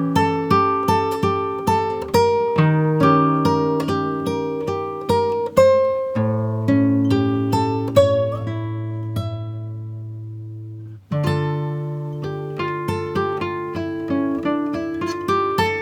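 Background music of plucked acoustic guitar, a steady run of separate notes. About eight seconds in the playing thins to one low held note that fades out, and a few seconds later the notes start again suddenly.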